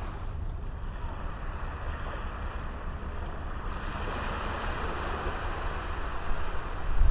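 Sea waves washing onto a small beach, a soft wash that swells about halfway through, with low wind rumble on the microphone.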